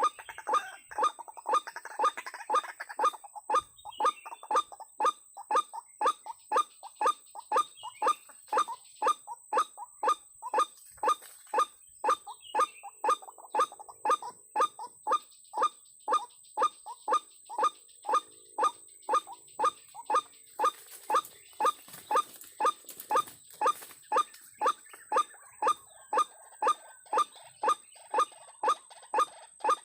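White-breasted waterhen (ruak-ruak) calls, a short 'kwak' note repeated evenly about twice a second.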